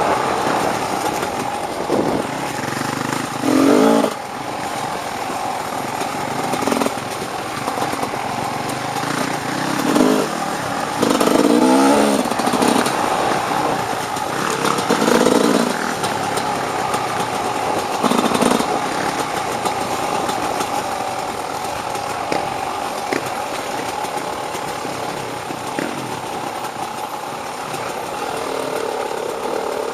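Off-road dirt bike engine running while riding, with several short bursts of throttle in the first twenty seconds.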